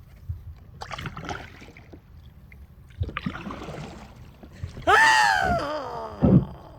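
Kayak paddle strokes splashing in river water, then a single long call, the loudest thing here, that slides down in pitch over about a second and a half.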